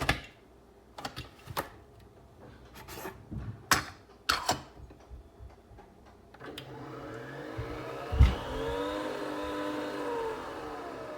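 Sharp plastic clicks and knocks of handling, then a small electric motor starts humming about six seconds in, its pitch rising and then falling back over a few seconds, with a single thump as it gets going.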